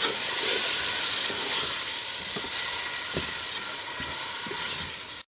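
Chopped tomatoes and salt frying in hot oil with whole spices in a steel pot: a steady sizzle. It cuts off abruptly just before the end.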